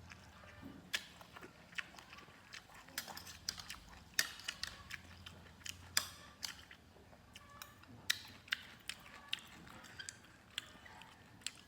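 Irregular sharp clicks and crackles, several a second at uneven spacing, from close-up handling or crunching.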